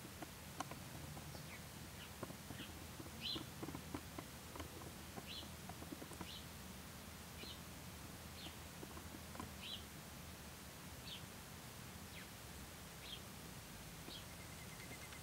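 Faint outdoor ambience: a bird repeating a short high chirp about once a second, over a steady low rumble.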